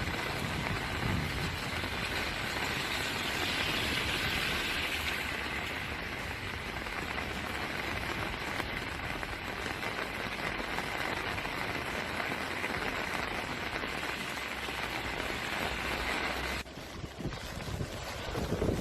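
Steady hiss of heavy storm rain, dropping off suddenly near the end.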